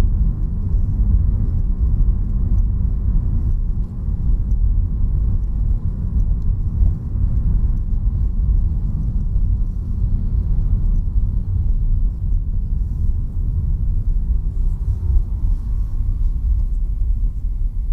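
Steady low rumble of a car on the move, road and engine noise heard from inside the following vehicle.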